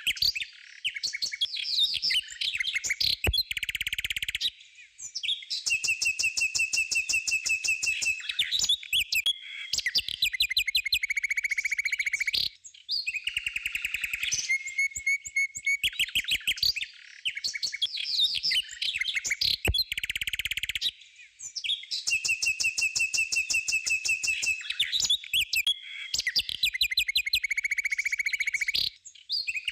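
Background track of songbird chirping: quick high-pitched chirps and trills broken by short pauses, the same passage repeating roughly every sixteen seconds as a loop.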